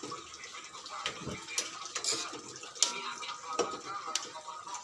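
Kitchen utensils and dishes clinking and knocking irregularly, with some water.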